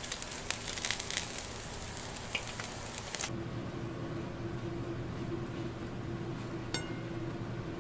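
Slices of Spam sizzling and crackling in a frying pan, cutting off abruptly about three seconds in. A steady low hum follows, with a single light click near the end.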